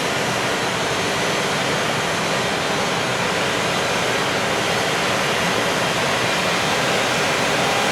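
Container freight train rolling past, a steady rushing noise from its wheels and flatcars on the track, growing slightly louder toward the end.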